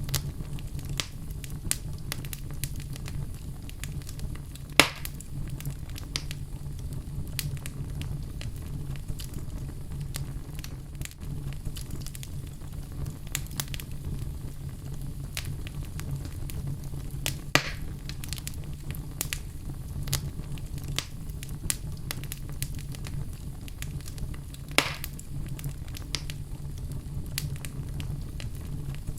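Wood fire in a fireplace burning with a steady low rumble and constant scattered crackling. Three louder pops stand out, about five, seventeen and twenty-five seconds in.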